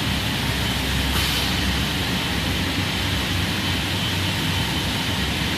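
Tunnel-type microwave drying machine running: a steady mechanical hum and rush of noise with a thin, constant high-pitched whine.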